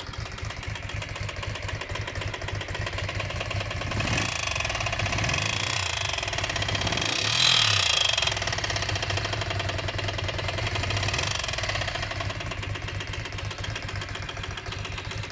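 Ducati Monster 400's air-cooled V-twin running, idling and then raised in revs about four seconds in, loudest near the middle, before settling back. A harsh abnormal noise from the cylinder head is heard in it.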